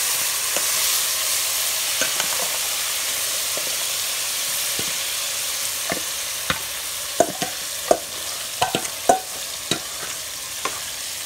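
Boiled chana dal sizzling in hot oil in a metal pan, the hiss slowly dying down as it settles. From about six seconds in, a series of sharp metal clinks and scrapes as a steel bowl and utensil knock against the pan.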